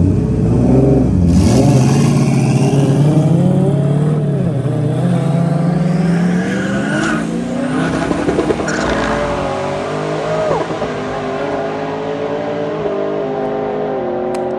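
Race car engines at full throttle during a roll-race pull. The engine note climbs steadily in pitch for several seconds, then drops back to a steadier engine drone.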